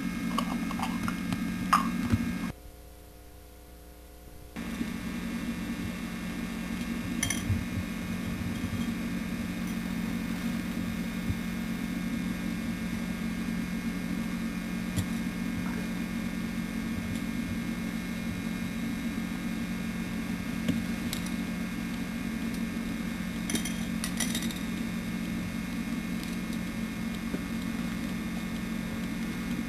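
Steady low hum with hiss, broken by a few faint clicks and knocks. The hum drops out for about two seconds near the start.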